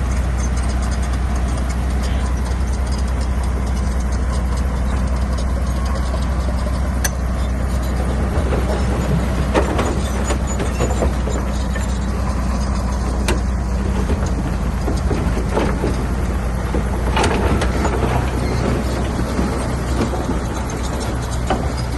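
Shantui bulldozer's diesel engine running steadily with a deep drone, while it pushes stone. Scattered sharp knocks come through over the engine.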